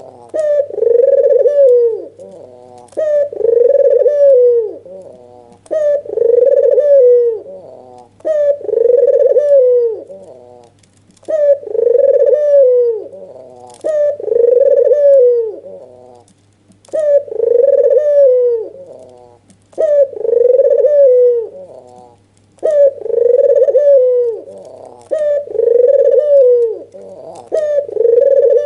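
White red-eyed (albino) ringneck dove giving the excited bowing coo, repeated about once every two seconds, each call ending in a falling glide. A faint steady low hum runs underneath.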